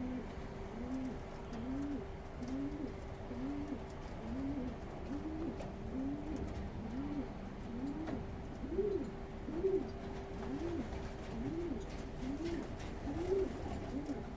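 Racing pigeons cooing: a long run of short, low, rising-and-falling coos repeating a little more than once a second, with a faint steady hum underneath.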